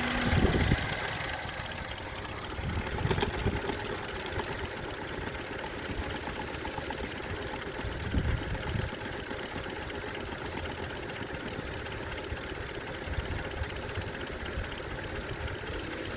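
2002 Honda CR-V's 2.4-litre four-cylinder engine idling steadily at low RPM with an intake hole blocked off by hand during rough-idle diagnosis; idle is low but stable. A few dull knocks from handling sound near the start and twice more.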